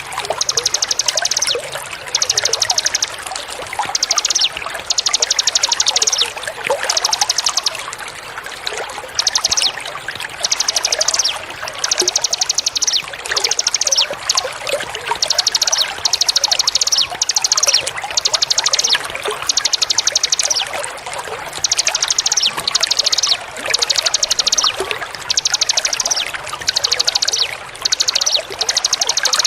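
Water trickling and pouring steadily under a small bird's high-pitched trilled song, repeated in phrases of about a second with short gaps between.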